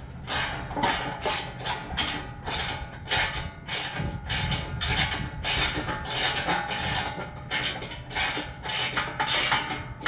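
A 3/8-inch socket ratchet on an extension clicking in quick, even strokes, about two to three a second, as a 12 mm skid-plate bolt is run out.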